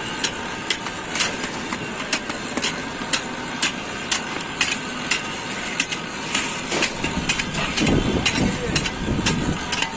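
An engine running steadily on a slab-casting site, likely the concrete mixer, with sharp clanks coming every half second to a second. Louder, lower sound joins in about eight seconds in.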